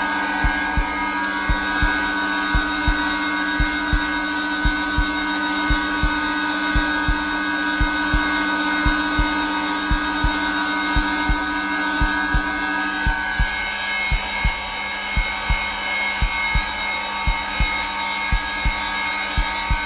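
Zelmer vacuum cleaner running steadily on its lowest setting, a continuous motor hum and whine whose tone shifts slightly about two-thirds of the way through. Under it is a heartbeat recording, soft low thumps at a steady resting pace of about 75 beats a minute.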